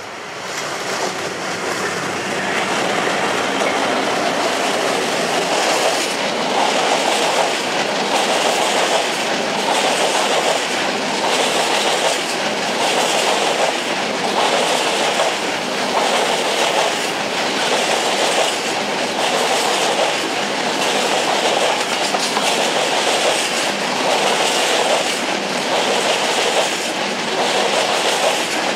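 A GBRf Class 66 diesel freight locomotive comes past, growing louder over the first few seconds. A long rake of coal hopper wagons then rolls by, their wheels clattering over the rail joints in a steady rhythm about once a second.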